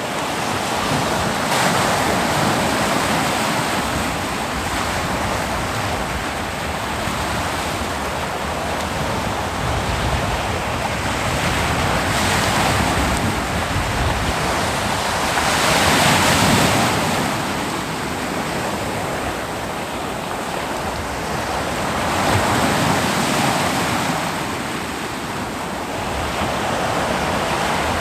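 Ocean surf breaking and washing on a beach, swelling and easing with each wave, the strongest swell about halfway through.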